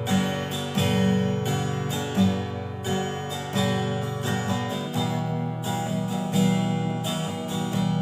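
Acoustic guitar strummed in slow chords, a new strum about every second with each chord left ringing.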